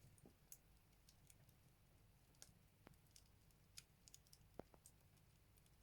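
Firewood burning in a Buleryan stove: faint, irregular crackles and small pops, scattered a few to the second.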